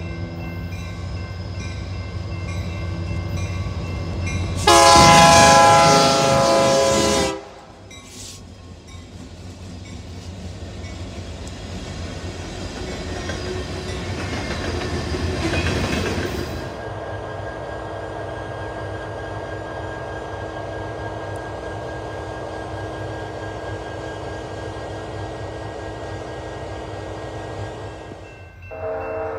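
Freight train led by BNSF SD75-series diesel locomotives sounding its air horn, with one long loud blast about five seconds in. The locomotives' engines and wheels then pass, swelling to a peak around the middle, and settle into a steady rolling of freight cars over the rails. A short horn sounds again near the end.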